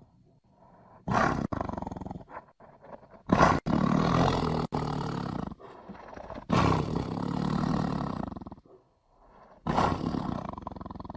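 Tiger growling and roaring in four loud, rough bouts separated by short quieter gaps with low grunts. The first bout is brief, about a second in. The longer ones last about two seconds each, and the last is still going at the end.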